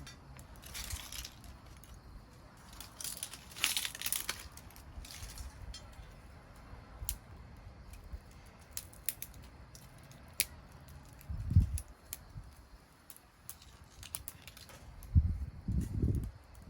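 Wood fire crackling with scattered sharp pops, and bursts of crinkling and rustling in the first few seconds. There are low thumps about eleven seconds in and again near the end.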